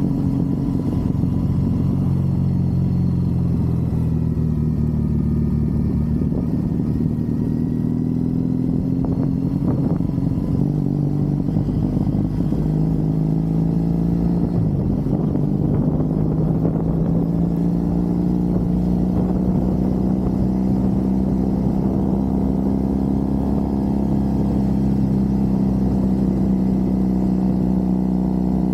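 Triumph Bonneville's parallel-twin engine running under way, its pitch rising and falling with the throttle. The pitch dips about halfway through, then climbs slowly and steadily as the bike accelerates.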